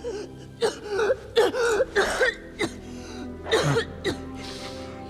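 A person coughing hard in about five rough, strained fits, the voice wavering through each one, over a film score.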